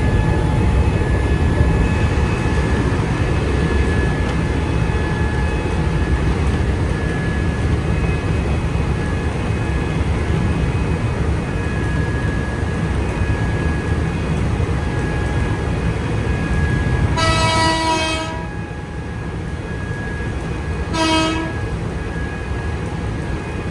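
Inside a Nankai Koya Line commuter electric train running at full speed: steady rumble of wheels and running gear with a faint steady whine. About 17 s in a train horn sounds for about a second, and a short second toot follows a few seconds later, after which the running noise is a little quieter.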